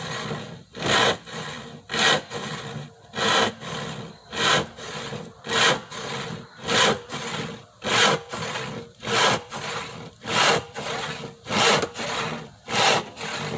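Hand saw cutting through a wooden board in steady, full strokes: a louder, sharp stroke a little more than once a second, each followed by a quieter, longer one.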